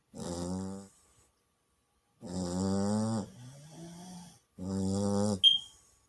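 Chow chow puppy snoring while asleep: three snores with a clear pitch, each under a second long and about two seconds apart, with a softer, lower drawn-out tone after the second. Just after the third snore comes a brief high chirp, the loudest moment.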